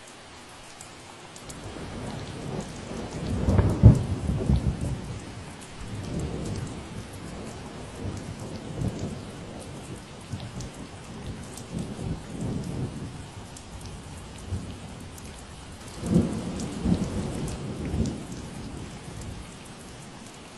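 Steady rain falling, with a long roll of thunder. The rumble builds about a second and a half in, is loudest around four seconds, swells again near the end and then dies away.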